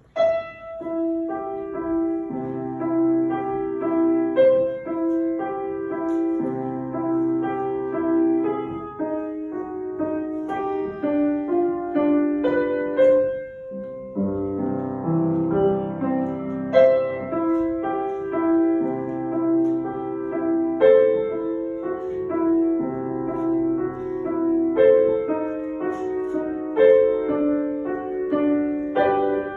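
Solo piano playing a gentle children's piece, with a repeating pattern of low notes under the melody and a short pause about halfway through.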